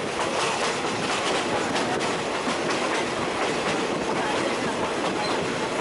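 Train running along the track, heard from on board: a steady rush of wheels on rails with faint clicks from the rail joints.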